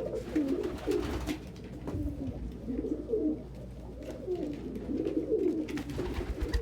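Several domestic pigeons cooing continuously in a small room, low overlapping coos. A few faint taps and low bumps sound among them.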